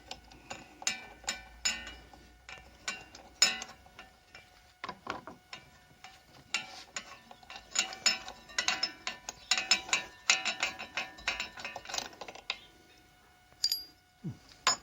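Spark plug being unscrewed from a lawnmower engine with a spanner: runs of quick, small metallic clicks and ticks that stop about twelve seconds in.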